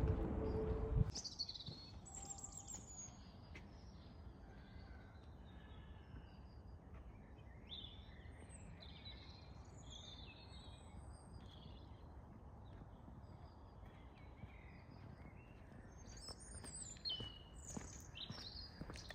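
Songbirds chirping and singing in short, scattered high phrases, busier near the end, over a faint low background hum. In the first second a louder noise with a steady hum cuts off abruptly.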